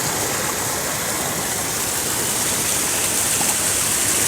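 Water flowing steadily out of a reservoir into a paddy field, an even rushing noise.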